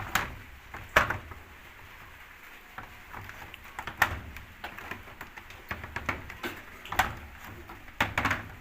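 Several separate plastic knocks and clunks, about five over the stretch, as a washing machine's lid is handled and fitted in place, with a faint low hum underneath.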